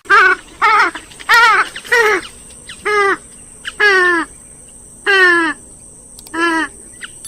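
Grey-headed swamphen calling: a series of about eight loud, harsh, nasal calls, roughly one a second, several of them sliding down in pitch.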